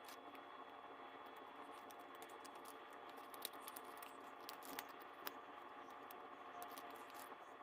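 Near silence: faint room hiss with a few small, sparse taps and clicks.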